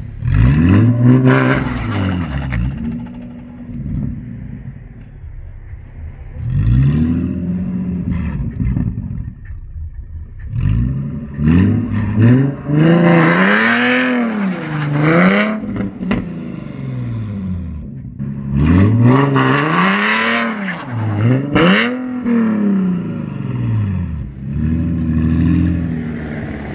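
Nissan 370Z Nismo's 3.7-litre V6 revved repeatedly while standing still, each rev rising and quickly falling back, in quick clusters near the middle and again later. The revs are cut short because the car cuts the throttle while the brake is held, foiling a burnout attempt.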